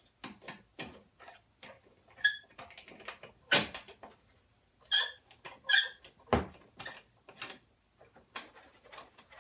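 Irregular clicks and knocks of a screwdriver working star-head (Torx) screws out of a lawn mower's side panel, with three short high squeaks among them.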